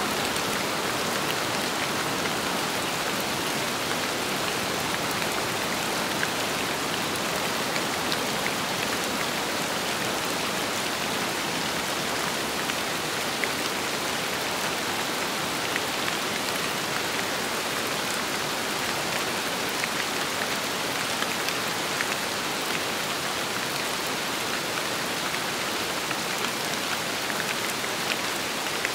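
Steady rain falling, a dense hiss filled with many small drop ticks.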